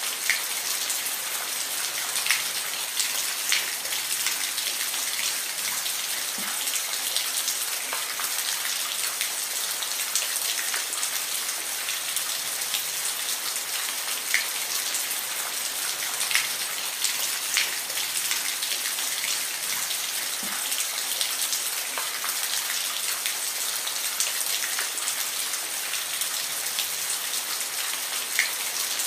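Steady rain, a continuous hiss with scattered individual drops ticking sharply on a surface.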